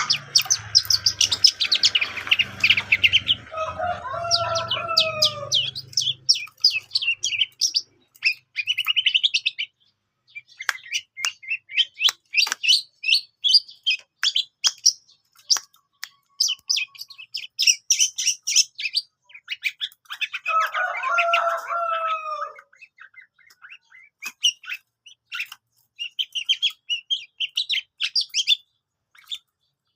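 A young long-tailed shrike sings in rapid runs of high, chattering notes broken by short pauses. Lower, falling calls come about four seconds in and again about twenty seconds in.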